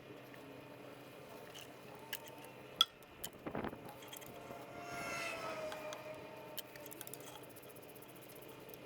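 Faint metallic clinks and taps of a wrench on fuel-line fittings, with one sharp click about three seconds in and a short faint falling tone near the middle.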